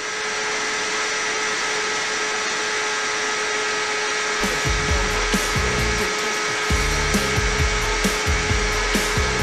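Kawasaki sport bike's engine held at high revs at speed, a steady high-pitched whine over rushing wind. From about four and a half seconds in, a deep, even music beat joins underneath.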